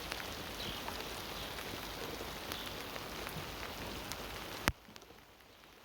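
Rain falling: a steady hiss of rain with scattered drop ticks, which drops away sharply after a click near the end.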